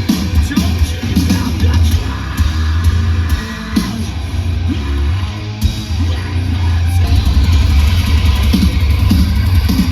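Heavy rock band playing live and loud, with guitars, bass and a drum kit.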